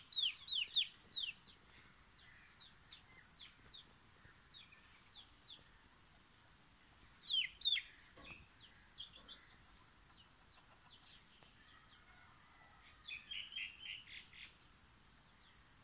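Chicks peeping: short, high peeps that fall sharply in pitch, coming in bursts. There is a quick run of them at the start, scattered single peeps, a loud pair about halfway through and a dense cluster near the end. These are a frightened chick's distress peeps.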